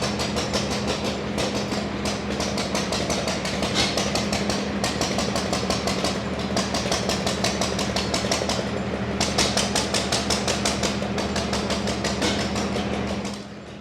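Small stationary gas engine running steadily, driving belt-powered pumps and a lathe, with a rapid, even beat of exhaust knocks over a steady hum. The sound drops away sharply near the end.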